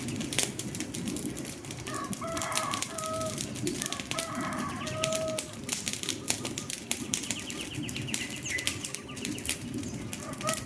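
Wood fire crackling with frequent irregular pops and snaps, while a bird calls in short phrases about two seconds in, again around four to five seconds, and once more near the end.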